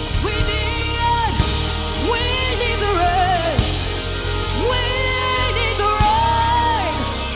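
Live worship band music: a steady bass and keyboard bed under a singer's wordless vocal line, held notes that slide up and down with vibrato.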